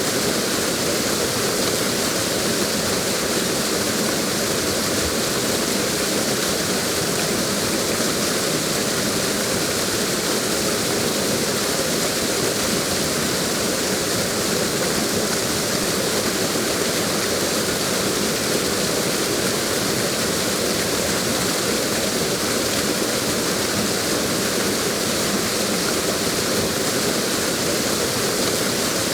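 Waterfall: a steady, even rush of falling water with no breaks or distinct events.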